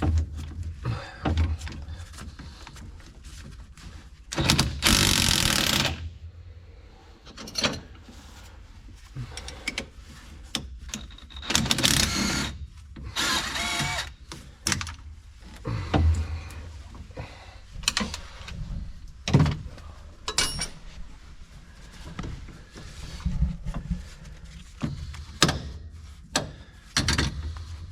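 Hand work on a tractor transmission teardown: metal tools and parts knocking and clanking irregularly, with two noisy bursts of a second or two each, around five seconds in and near the middle.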